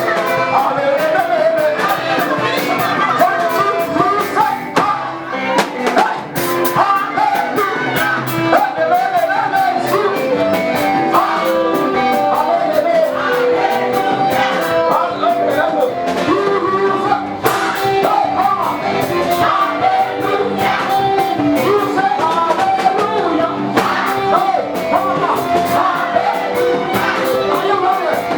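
Live gospel praise music: a band playing a steady beat with singing over it.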